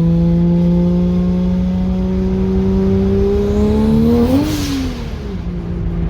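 Turbocharged Ford Barra straight-six in a BF Falcon Tornado pulling under acceleration, heard from inside the cabin, its note rising steadily for about four seconds. About four and a half seconds in there is a brief hiss as the throttle lifts, and the revs drop for a gear change.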